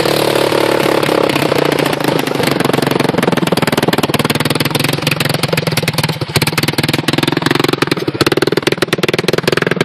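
Wildfire 200 cc ATV's single-cylinder four-stroke engine idling with a fast, even beat, its speed settling down slightly over the first second or two.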